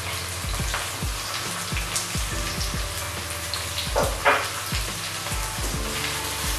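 Sliced onions and ginger frying in hot oil in a non-stick wok, a steady sizzle with a wooden spatula stirring near the end and a sharp knock about four seconds in. Background music with a steady beat plays underneath.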